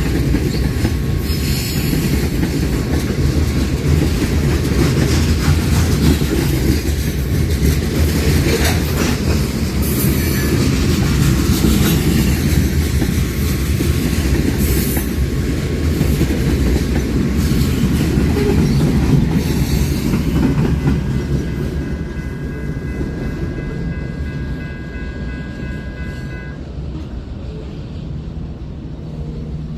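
A train rolling past: a loud, steady rumble of wheels on rail with repeated clicks over the rail joints. It fades gradually after about twenty seconds, and faint high-pitched steady tones come in near the end.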